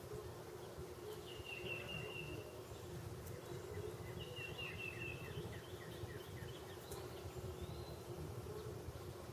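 A small songbird sings two short phrases of quick, high, repeated notes, about a second and a half in and again about four seconds in, followed by a run of short falling notes. Under it runs a steady low hum.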